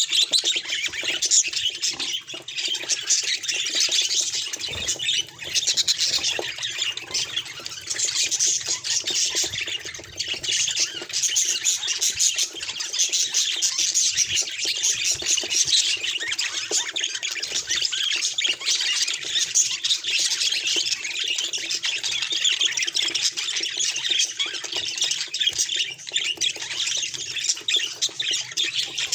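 Budgerigars chattering and squawking without pause, a dense stream of quick warbles and chirps.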